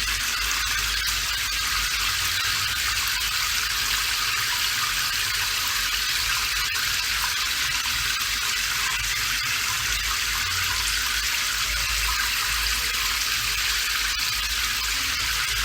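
Steady rain: an even hiss of falling water, with a low rumble underneath.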